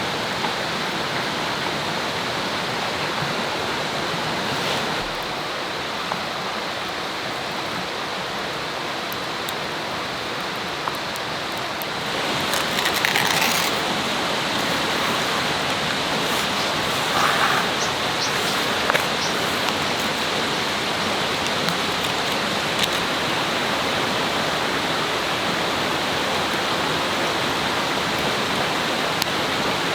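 Steady rush of flowing river water, a little louder from about twelve seconds in, with a few faint clicks over it.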